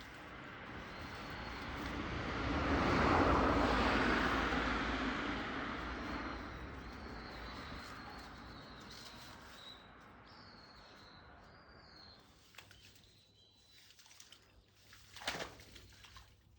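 A vehicle passes, its noise swelling for about three seconds and then slowly fading, while small birds chirp faintly; a short sharp sound comes near the end.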